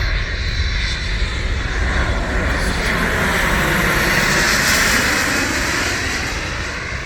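Learjet business jet's turbofan engines passing close by on landing approach: a jet rush that swells to its loudest about four to five seconds in, then fades as it goes by.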